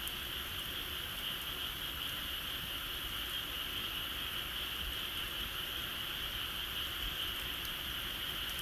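Steady, unbroken high-pitched trilling of insects in a rural outdoor ambience, with a few faint ticks.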